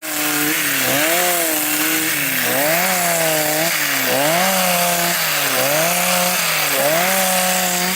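Chainsaw fitted with a planer-head cutter stripping bark from a pine log. Its two-stroke engine runs at high revs, and the pitch dips and recovers about every second and a half as the cutter bites into the bark under load.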